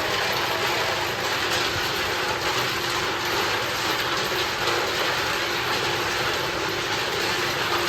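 Workshop machinery running steadily: a dense, even noise with faint scattered ticks.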